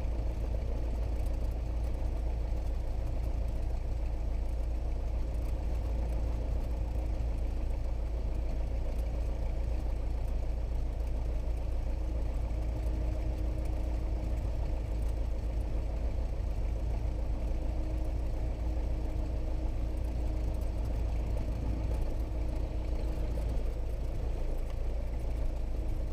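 Cessna 172S's four-cylinder Lycoming engine and propeller running steadily at low taxi power, a constant low drone heard through the aircraft's intercom audio feed.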